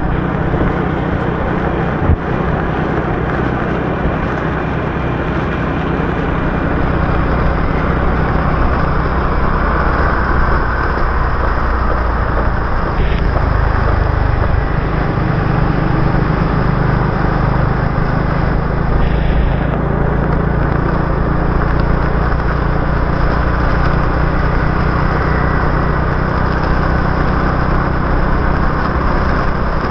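Motorbike engine running steadily while riding a wet city road in the rain, under a constant hiss of road and rain noise, with a couple of brief higher-pitched sounds from traffic partway through.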